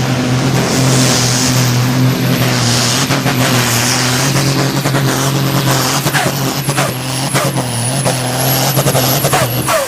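Super Sport pulling tractor's diesel engine running flat out under load during a pull. In the last few seconds its pitch falls several times as the engine is pulled down, and the sound cuts off abruptly at the end.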